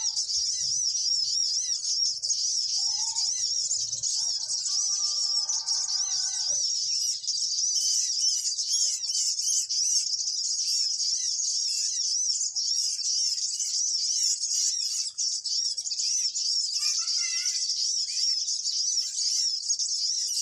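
High-pitched bird chirping, fast and repeating without a break, as used to lure birds for trapping. About four seconds in, a lower steady tone with several notes sounds for a couple of seconds.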